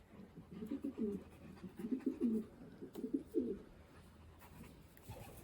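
Racing pigeons cooing: several low coos that rise and fall in pitch through the first three and a half seconds, then quieter.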